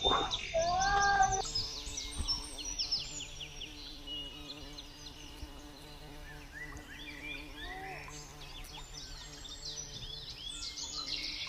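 Forest birds chirping, many short rapid high calls, busiest near the start and again toward the end, over a faint steady low hum.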